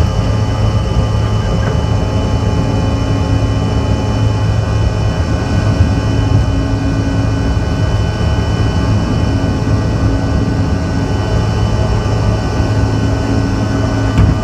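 Cabin noise inside a Bombardier CRJ-200 jet after takeoff: the rear-mounted turbofan engines and airflow make a steady drone with a strong low hum and several steady tones. There is a brief click near the end.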